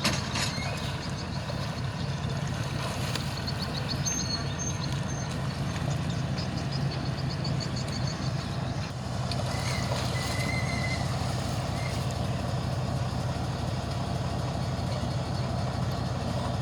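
Tugboat engine running steadily with a low hum. A knock at the very start, and brief high squeals around four to five seconds in and again around ten seconds in.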